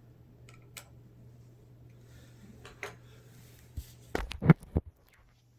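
Small hand tools and laptop parts being handled while screws are put back in: scattered light clicks, then a quick run of louder knocks and taps about four seconds in. A steady low hum lies underneath.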